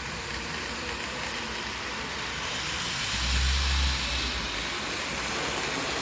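Model train running past on its track: a steady hiss of wheels on rail that grows louder, with a brief low rumble about three seconds in.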